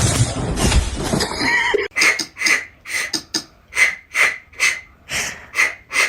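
A dog lapping water from a bowl in quick, regular laps, about three a second, beginning about two seconds in after a short stretch of steady rushing noise.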